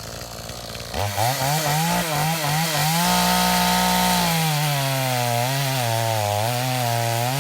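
Chainsaw running close by. About a second in it becomes loud, its engine speed rising and falling. It holds high revs for about a second, then keeps running with a wavering pitch.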